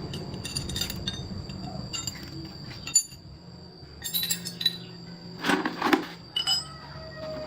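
Scattered metallic clinks and taps of tools and metal parts being handled during a machine repair, some with a short ring. The loudest come in a cluster about two-thirds of the way in.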